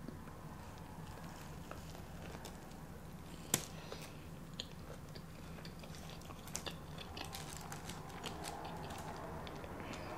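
Quiet chewing of fast food, with small wet mouth clicks and one sharper click about three and a half seconds in, over a faint low hum.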